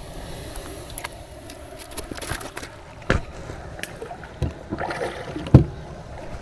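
Wind rumbling on the microphone over water sounds around a fishing kayak, with scattered knocks and clicks of gear against the hull; the sharpest knock comes about five and a half seconds in.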